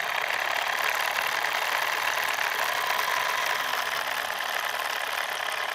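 Small electric motor of a DIY model drilling machine running steadily with a high, even whir.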